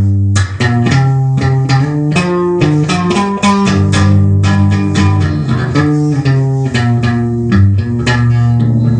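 Guitar playing a riff of quick picked notes over low sustained notes.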